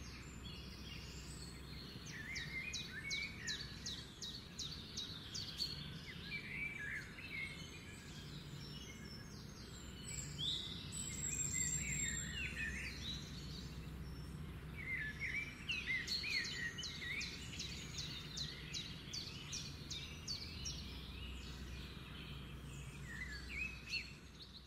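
Songbirds chirping and singing, with quick runs of rapid repeated notes twice, over a steady low background rumble.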